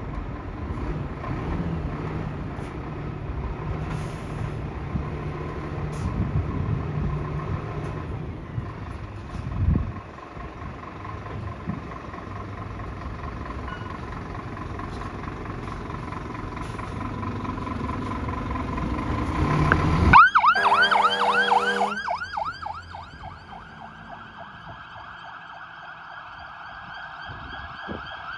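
Scania P360 fire engine moving off with its diesel engine running, then about twenty seconds in a loud blast of its air horns, followed by the emergency siren wailing.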